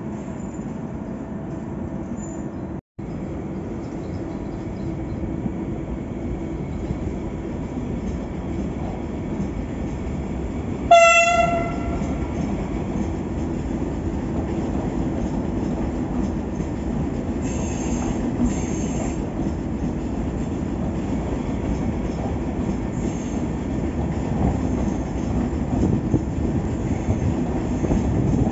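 Frecciarossa 1000 high-speed electric train moving slowly out of the platform, a steady low rumble that builds toward the end. One short, sharp train horn blast sounds about eleven seconds in.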